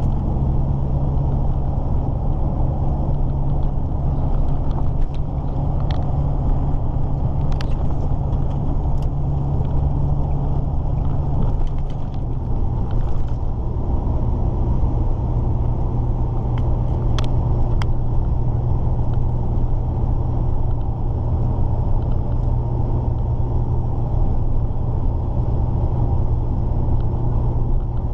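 Volvo F16 truck's diesel engine running at steady road speed, heard from inside the cab as a steady low drone; its note drops a little about twelve seconds in. A few sharp clicks sound during the middle of the drive.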